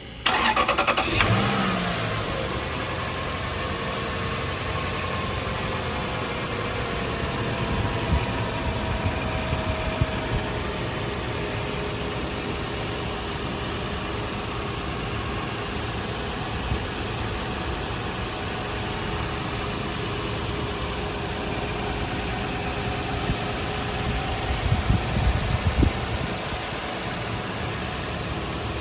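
2004 Lexus LX470's 4.7-litre V8 starting: it catches at once with a brief rev flare, then settles into a steady idle, with a few short rises in level around ten seconds in and near the end.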